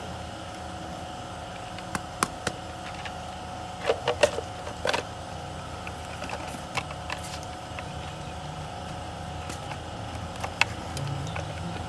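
Scattered sharp clicks and knocks of hand tools on metal, a cluster of them about four seconds in, over a steady mechanical hum.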